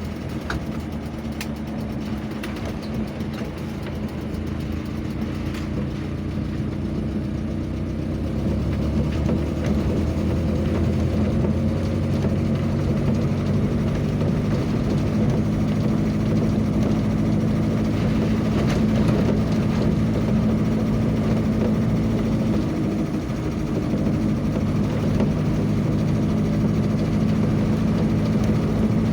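A vehicle's engine running steadily on the move, with a low, even hum that gets louder about eight seconds in.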